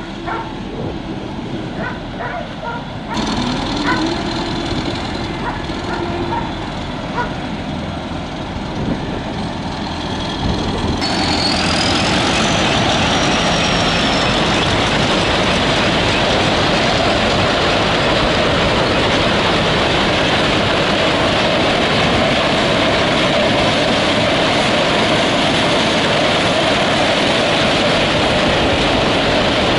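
Combine harvester running: a steady, loud mechanical noise that sets in abruptly about eleven seconds in, after a quieter stretch with scattered clicks.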